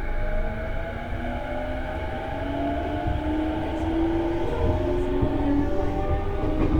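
E233-series electric train heard from inside the car, its traction motor and inverter whine climbing steadily in pitch as the train picks up speed. A low rumble of wheels on rail runs underneath.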